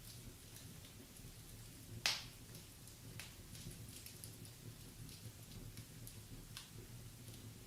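Wood fire in a fireplace crackling, with scattered small pops and one loud sharp pop about two seconds in.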